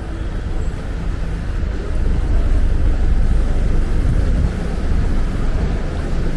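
Outdoor street noise: a steady low rumble with no distinct events.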